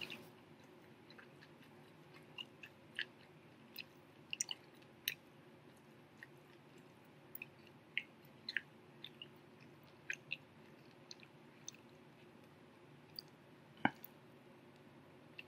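Faint chewing of a Popeyes fried chicken sandwich: scattered short mouth clicks and smacks, with one sharper click near the end.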